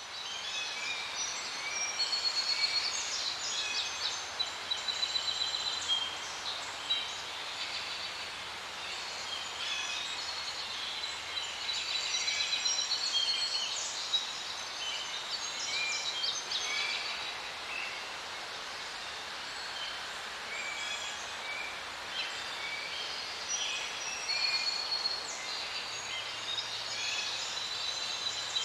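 Many birds chirping and calling at once, short quick notes overlapping throughout, over a steady background hiss.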